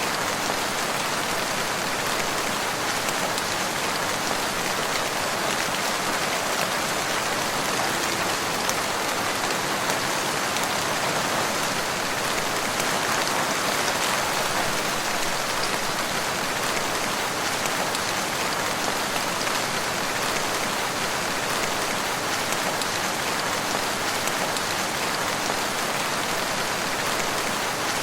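Steady rain falling in woodland, an even hiss of drops without thunder or pauses.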